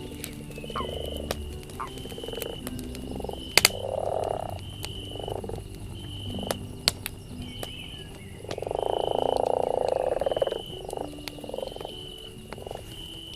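Frogs croaking in pulsed calls, with one long croaking call about two-thirds of the way through. A campfire crackles with a few sharp pops, and a short high note repeats at an even pace, about every second and a half.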